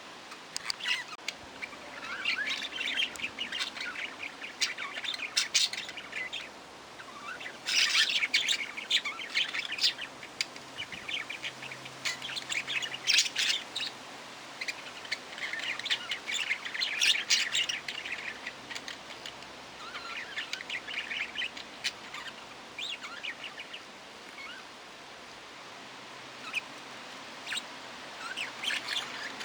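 Small pet parrots chirping and chattering, a flock's busy mix of short chirps and squawks that comes in bouts of a few seconds with brief lulls between.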